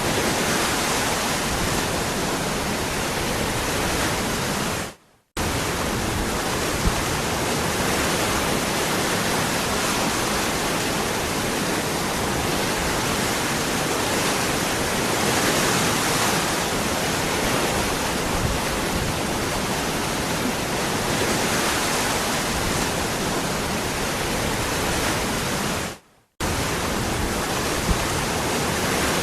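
Waterfall rushing steadily. It fades out and cuts back in abruptly twice, about five seconds in and near the end.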